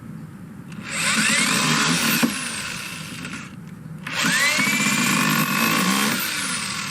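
Power drill driving screws into a wooden frame, in two runs of about three seconds each, the motor whine rising as each run starts.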